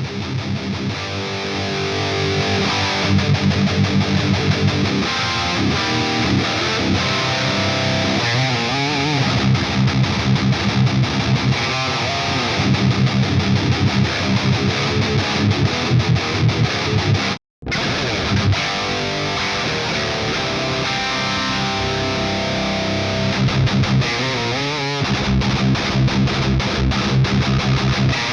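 Heavily distorted electric guitar playing metal riffs through a Peavey 5150-style high-gain tone, with fast palm-muted chugging and a few wavering bent notes. The sound cuts out completely for a moment about two-thirds of the way through, then the riff resumes.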